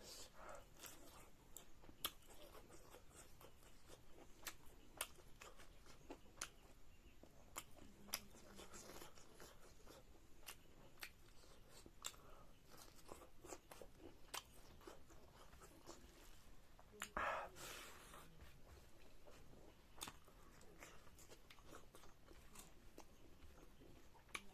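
Faint, close-miked chewing and crunching of food, with scattered short clicks and one louder, longer crunching noise about 17 seconds in.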